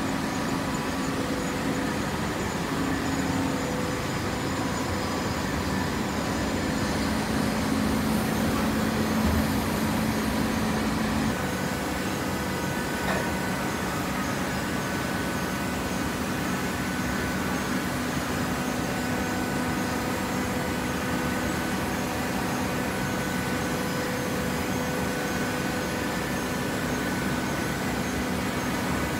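Hydraulic baler's motor and pump running with a steady machine hum; its tone shifts about eleven seconds in.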